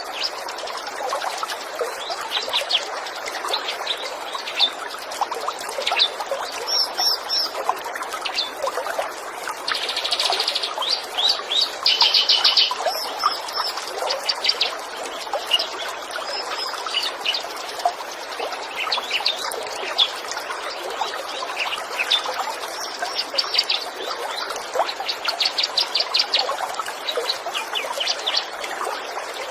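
Small birds chirping and trilling in quick high notes, with a rapid buzzy trill about ten to thirteen seconds in, over the steady rush of trickling water.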